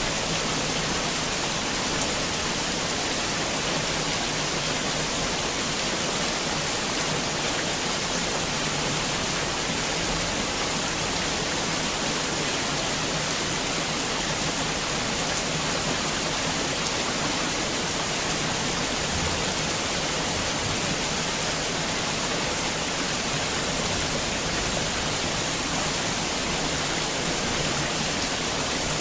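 Heavy rain falling, a dense, steady hiss that does not let up or change.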